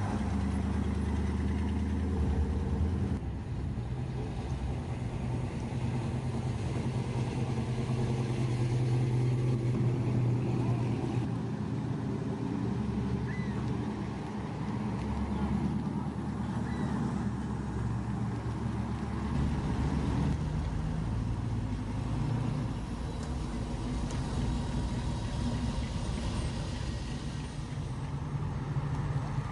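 Car engines running at low revs, a deep exhaust note whose pitch shifts several times as different cars pass or rev slightly.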